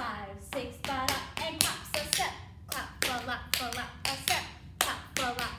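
Tap shoes striking a hard floor in a quick, uneven rhythm of sharp clicks: heel drops, toe taps, flaps and ball changes, with hand claps mixed in.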